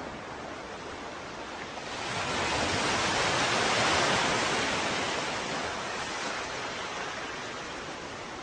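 Ocean waves: a steady wash of surf, with one wave swelling about two seconds in and slowly receding.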